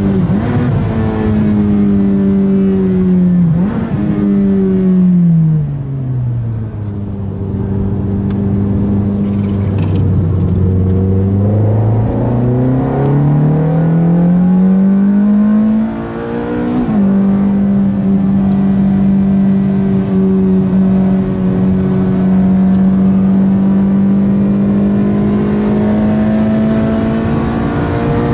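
Ferrari F430's V8 through a Capristo exhaust, heard on board while lapping: the note falls as the car slows to low revs for several seconds, then climbs back as it accelerates. A brief break in the sound comes just after the middle, then the engine holds high revs, slowly rising.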